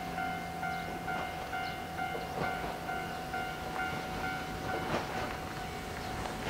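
Yoro Railway electric train approaching, its wheels clicking over rail joints from about two seconds in and louder near the end. Over it a level-crossing warning bell rings in a steady on-off rhythm, about twice a second.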